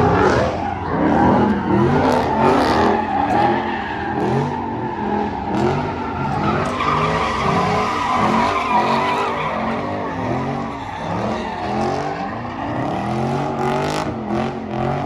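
Car engine revving up and down in quick repeated surges over continuous tire squeal, as in a burnout.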